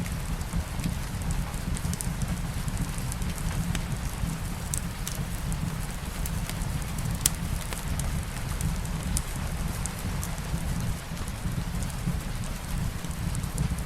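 Light rain falling with a wood fire crackling, a steady low rumble underneath, and scattered sharp pops, the loudest about seven seconds in.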